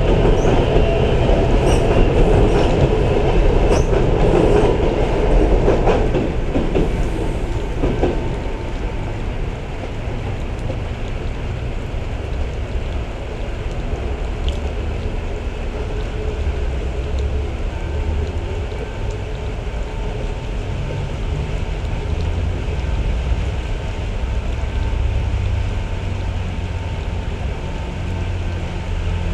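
Sarmiento line electric commuter train running past, loud with scattered clicks from the wheels for about the first six seconds, then fading by about eight seconds to a steady low hum.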